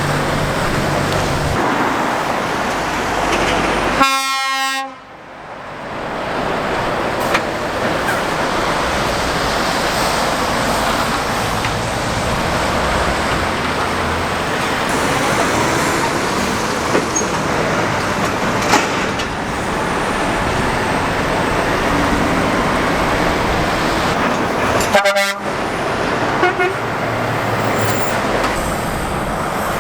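Steady road traffic, lorries and cars going past, with a short horn toot about four seconds in and another brief toot near the end.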